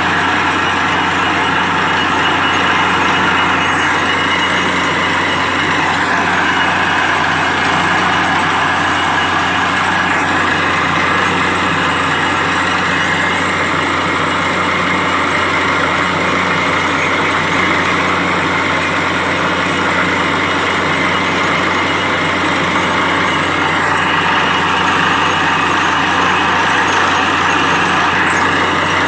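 Truck-mounted borewell drilling rig running steadily, its engine and machinery making a loud, unbroken din.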